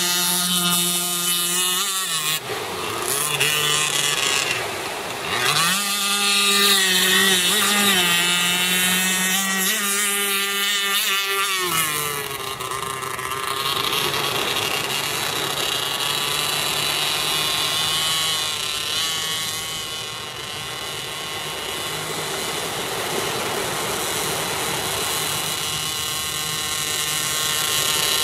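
RC boat's 26cc Zenoah two-stroke gasoline engine with tuned exhaust running hard, its high buzzing note dropping and rising again as the throttle is worked. From about twelve seconds in the note is fainter, rougher and steadier.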